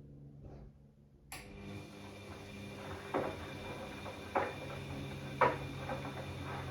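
Bosch Classixx 6 front-loading washing machine during the heating stage of a 90-degree cotton wash. A low hum gives way, about a second in, to a steady whir and hiss as the drum turns, with sharp knocks roughly once a second as the load tumbles.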